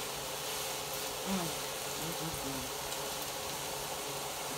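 Green beans frying in a skillet: a steady sizzle.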